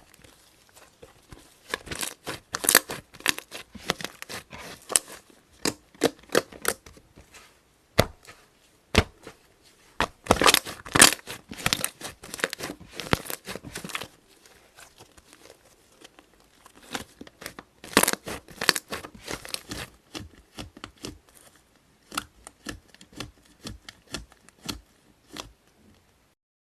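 Slime being squeezed, stretched and pressed by hand, giving irregular bursts of crackly popping and snapping clicks, with quieter stretches between bursts. The sound cuts off abruptly near the end.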